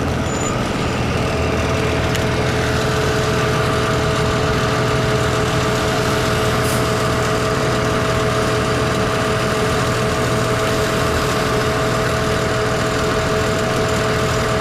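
Steady riding noise from a fat-tire e-bike in heavy rain and wind: wind and rain rushing over the body-mounted microphone with tyre hiss on the wet road. About a second in, a steady two-note whine joins and holds.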